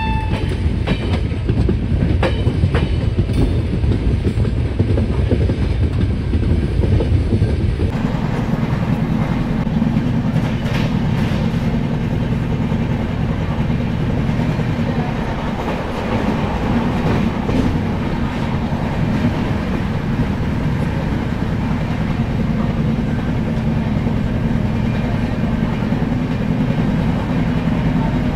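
Passenger express train running on the track: a steady, loud rumble with scattered clicks of wheels over rail joints. The rumble changes tone about eight seconds in.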